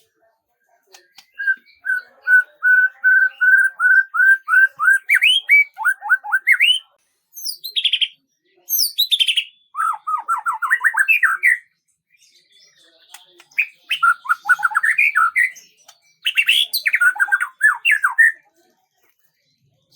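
A songbird singing: an even run of repeated notes, about three a second, then several phrases of fast trills made of quick falling notes, with short pauses between the phrases.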